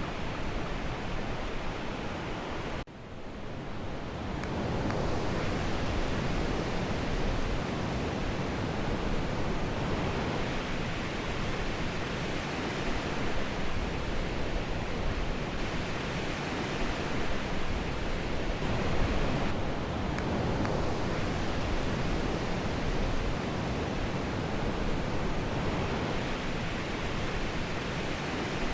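Steady rushing noise of ocean surf breaking on a beach, with wind on the microphone.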